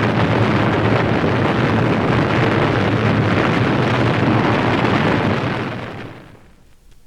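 Recorded sound effect of a large fire burning: a steady, dense rushing noise that fades out about six seconds in.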